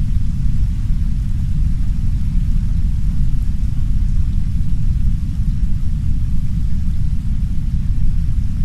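Heavy brown noise: a steady, deep rumbling hiss with its energy in the low range and no changes. A faint soft rain hiss lies beneath it.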